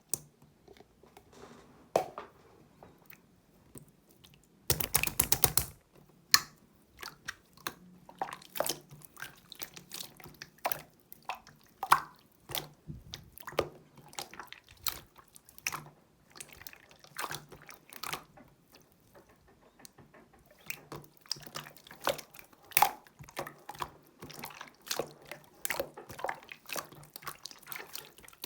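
Clear slime being worked by hand, giving irregular wet clicks and pops, with a quick flurry of clicking about five seconds in.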